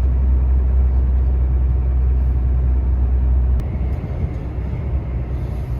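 Volvo truck's diesel engine and road noise droning low and steady inside the cab while driving. About three and a half seconds in there is a click, and the drone drops and becomes quieter and rougher.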